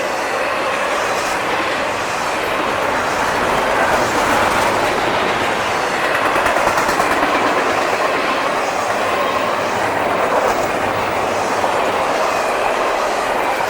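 Freight train cars of an intermodal double-stack train rolling past close by: a steady rumble with wheels clattering over the rails.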